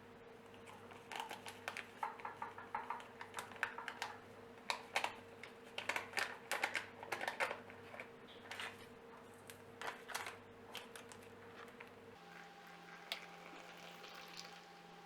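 Irregular light clicks and taps of small objects being handled, over a steady low hum that changes pitch about twelve seconds in.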